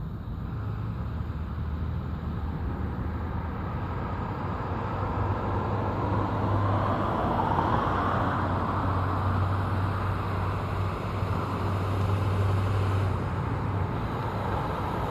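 Steady road vehicle noise: a low hum with a broad rush that slowly swells, and a tone that rises and then falls partway through.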